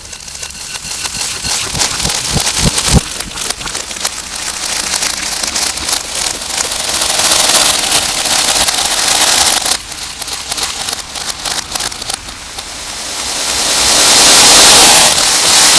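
Heavily distorted slime ASMR sounds: dense wet crackling and clicking that swells into a loud hiss near the end.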